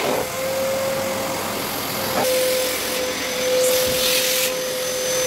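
Vacuum cleaner running with a steady hum, with brief bursts of higher hiss about two and four seconds in.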